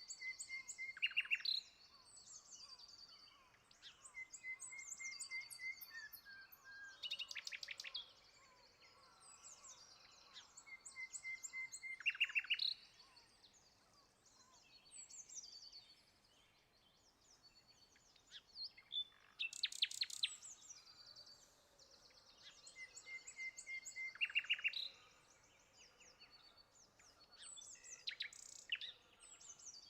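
Songbirds singing outdoors, repeating short song phrases with a rapid buzzy trill in each, about every four to five seconds.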